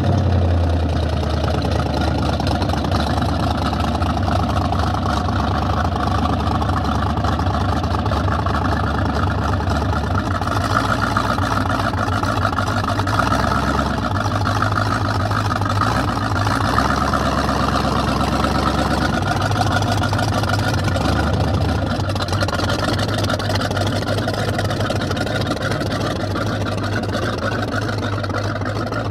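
1931 Ford five-window coupe hot rod's engine idling steadily just after being started, with small changes in pace partway through.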